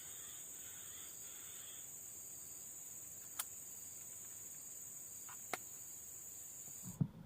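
Insects shrilling in a steady high band, with faint chirps in the first two seconds, two sharp clicks a couple of seconds apart in the middle, and the shrilling cutting off abruptly near the end, where a thump and low rumbling come in.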